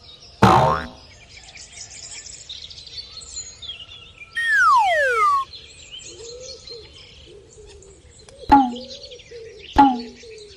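Continuous small-bird chirping. A loud sudden hit comes about half a second in, a falling whistle-like tone slides down over about a second near the middle, and two sharp clicks come near the end.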